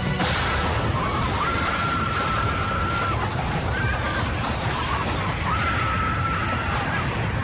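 Dramatised explosive decompression aboard a DC-10: a sudden blast cuts in, followed by a steady rush of air and noise. A high held tone sounds twice over it.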